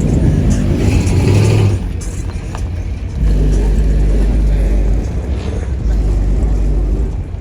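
Car engine revving hard with a loud exhaust, in two bursts: the first until about two seconds in, the second from about three seconds to five seconds.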